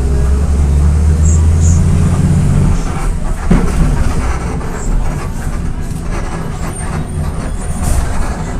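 Volksbus 17.230 EOD bus's diesel engine running with a steady low drone that drops away about three seconds in, as at a gear change on its five-speed gearbox. The engine then runs on with a lower, rougher sound.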